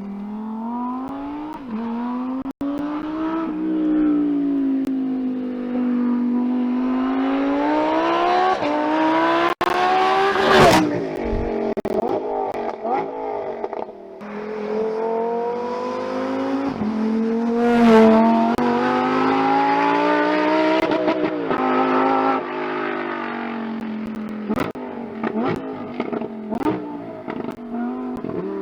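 Lamborghini Huracán Tecnica's naturally aspirated V10 engine, its note rising and falling repeatedly. Twice it climbs to a high peak that ends in a sharp crack and a sudden drop in pitch, as at a gear change. Near the end the note falls back and breaks into a stutter of pops and crackles.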